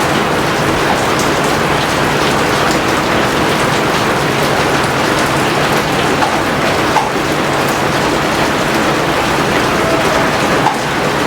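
Steady heavy rain: a dense, even hiss with single drops ticking through it.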